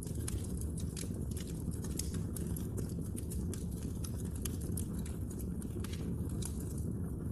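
Wood fire burning in a fireplace: a steady low rumble of flames with many sharp, irregular crackles and pops from the burning wood.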